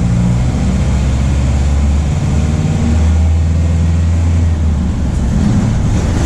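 MAN D0834 four-cylinder turbodiesel of a VW 17.230 OD bus running on the road. Its low engine note shifts about two seconds in and again near five seconds as engine speed changes.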